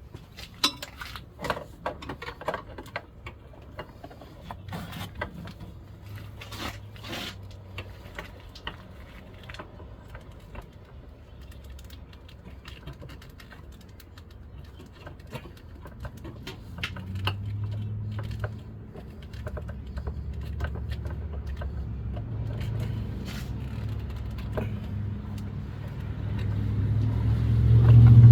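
Scattered light clicks and knocks of parts being handled. From about halfway in, a car engine's low rumble comes in and grows louder near the end.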